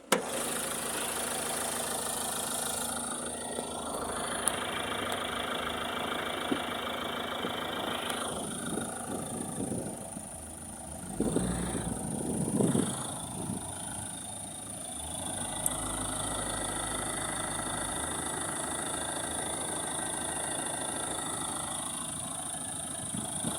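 Mahindra Thar ROXX engine idling steadily under an open bonnet, with a brief louder stretch about eleven seconds in. It is being checked for a vibrating noise from the engine bay, which the mechanic traces mostly to a loose pipe.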